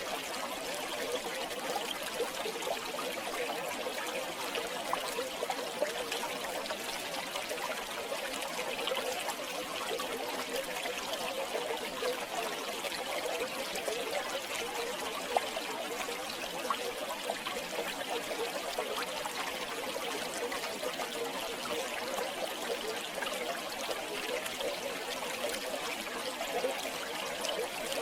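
River water flowing and babbling over stones, a steady bubbling trickle with occasional small splashes.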